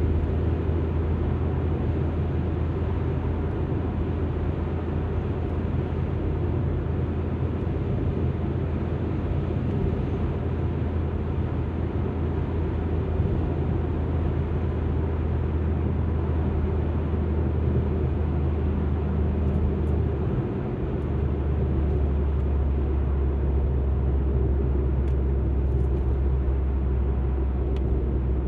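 Alfa Romeo MiTo driving, heard from inside the cabin: a steady low engine and road drone with tyre noise. About two-thirds of the way through the drone dips briefly and then carries on slightly lower.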